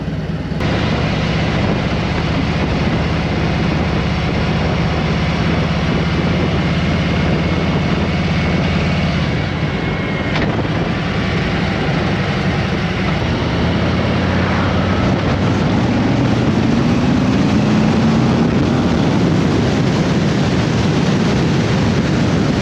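Harley-Davidson Road King V-twin engine running on the move, with wind rushing over the microphone. The engine note climbs in pitch about two thirds of the way through as the bike accelerates.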